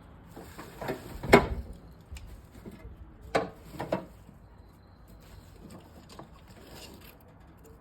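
Handling noises: a few knocks and clatters, the loudest about a second in and two more about three and four seconds in.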